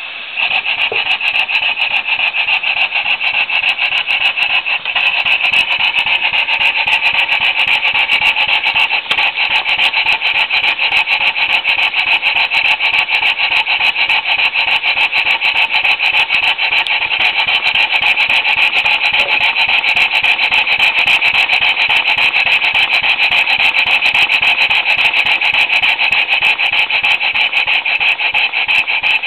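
Ray Hasbrouck No. 10 reversing column model steam engine running fast on compressed air, a rapid, even stream of exhaust puffs with a hissing rush of air. It holds a steady speed after picking up slightly in the first half-second.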